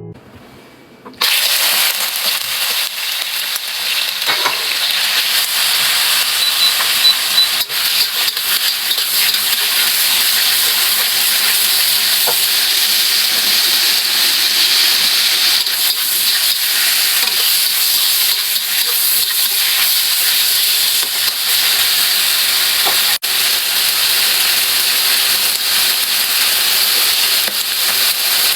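Food sizzling as it fries in a hot pan, a steady loud hiss that starts abruptly about a second in.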